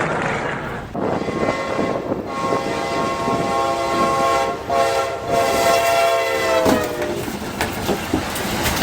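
Locomotive horn blowing one long chord over the rumble of a passing train, its pitch dropping near the end as the train goes by.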